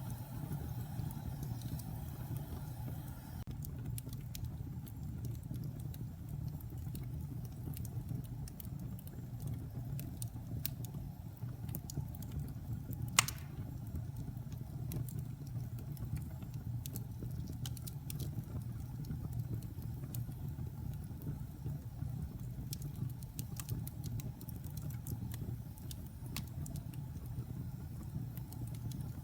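Wood fire burning in a fireplace: a steady low rumble with scattered crackles of the burning logs and one loud pop about halfway through.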